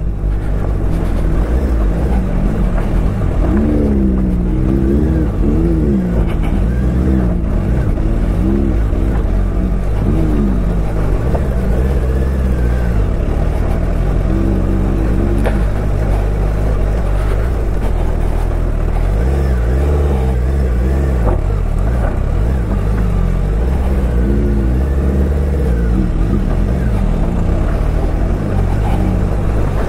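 Suzuki Hayabusa's inline-four engine under a rider's stop-start throttle on a rough unpaved track, its note rising and falling again and again over a steady low rumble.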